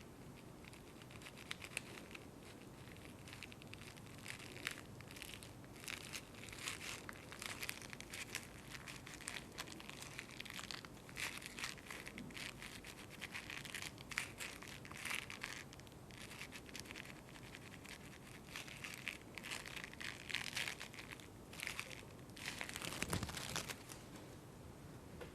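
Irregular crinkling and crumpling handled close to the microphone, starting about a second in and stopping near the end.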